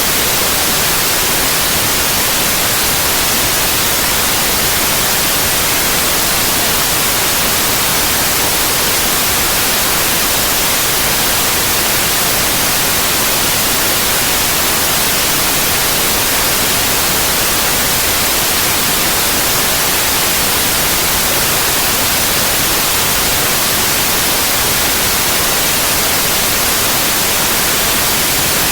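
Steady, loud white noise: an even hiss, brightest in the treble, with no changes or interruptions.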